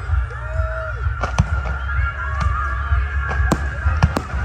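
Fireworks going off: about half a dozen sharp bangs at irregular intervals over a steady low rumble.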